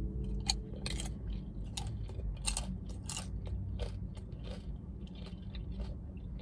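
Close-miked chewing of a mouthful of burrito bowl, with irregular crisp crunches, the loudest in the first few seconds.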